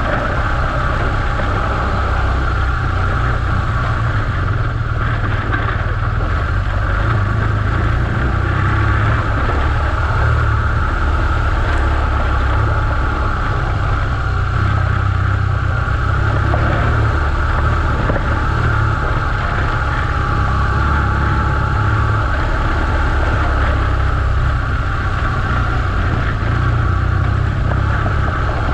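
BMW R1200GS Adventure's boxer-twin engine running steadily as the motorcycle rides along a gravel track. It makes a continuous low rumble under a steady hiss of wind and road noise.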